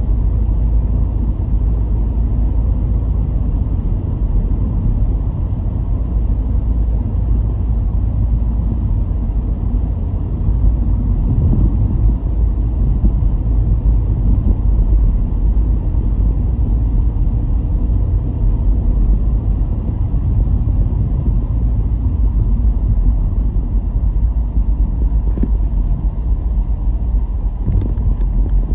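A car driving along: a steady, deep rumble of engine and tyres on the road, with no changes in pace.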